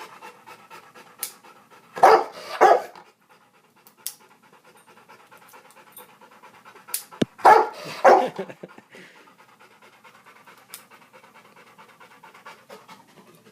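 A dog panting steadily, with two loud clusters of short noisy bursts about two seconds in and again about seven and a half seconds in, and scattered sharp clicks.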